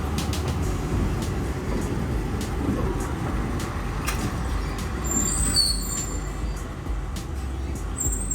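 A train moving slowly on metre-gauge track, with a steady low rumble and scattered clicks. Brief high-pitched wheel squeals come about five to six seconds in and again near the end.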